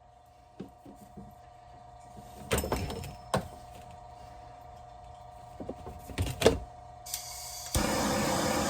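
Knocks and clatters of parts being handled, then a heat gun switched on about three-quarters of the way in, blowing with a steady hiss to heat the plastic pipe.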